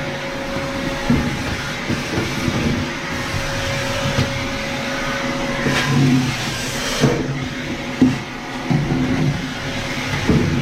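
Vacuum cleaner running steadily, with a couple of sharp knocks in the second half.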